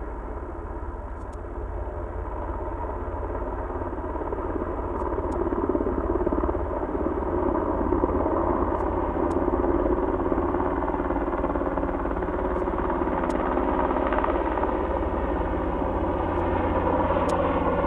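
Sikorsky S-92 twin-turboshaft helicopter running, its engines and rotor a steady drone with held tones, growing louder over the first few seconds and then holding.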